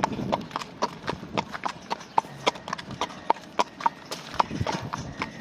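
Horse's hooves clopping at a walk, an even run of sharp clops about three or four a second.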